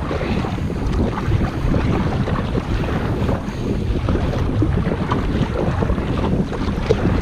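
Wind buffeting the microphone in a low, steady rumble, over choppy water splashing around a kayak.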